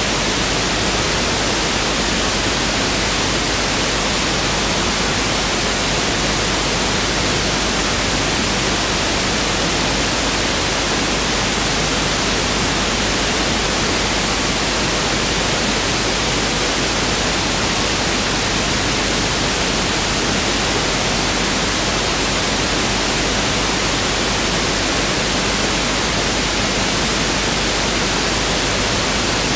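Pink noise (1/f noise) test signal: a steady, even hiss spread across all frequencies, unchanging throughout.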